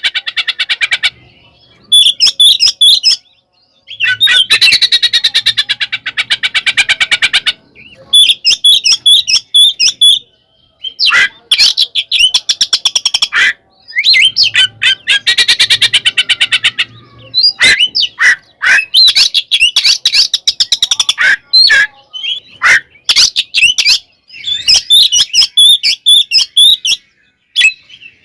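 Oriental magpie-robin (kacer) singing loudly in aggressive fighting song: bursts of fast, harsh chattering rattles lasting two to three seconds, alternating with shorter high whistles and squawks.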